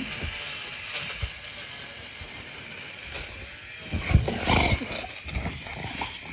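A dog growling, in louder rough bursts about four seconds in.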